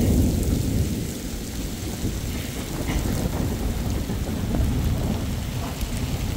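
Heavy rain pouring steadily, with a deep rumble underneath. The rumble is loudest at the start and eases off within the first second.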